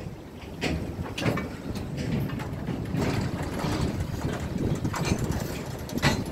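Freight train of boxcars rolling past: a steady low rumble broken by irregular sharp clanks every second or so, with wind buffeting the microphone.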